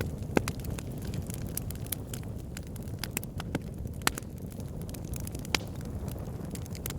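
Campfire burning, with a steady low rumble of flames and irregular sharp crackles and pops of burning wood.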